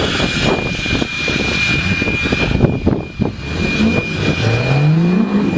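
Diesel truck engines running, with a steady high whine over the engine noise. One engine revs up near the end, its pitch rising over about a second.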